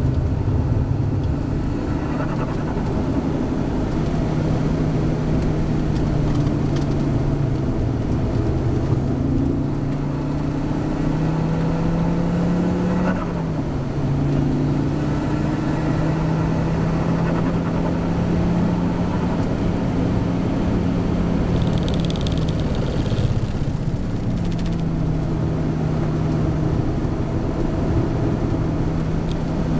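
Fiat Coupé 20V Turbo's turbocharged five-cylinder engine heard from inside the cabin, running hard on a track lap. Its pitch climbs, then drops sharply at a gear change about 13 seconds in.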